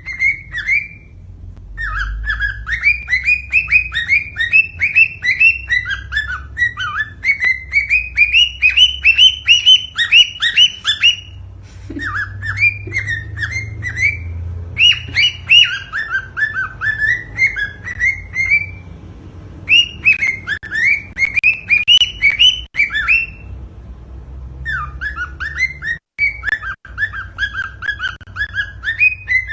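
A bird singing loud whistled phrases: fast runs of short notes, each swooping down and back up, in stretches of several seconds broken by brief pauses.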